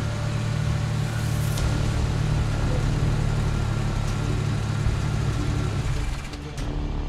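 A car engine idling with a steady low rumble that eases off about six seconds in, with a few faint clicks over it.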